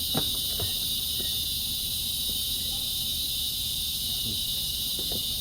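Steady, high-pitched insect chorus, continuous and unchanging, with a few faint knocks about a quarter second in.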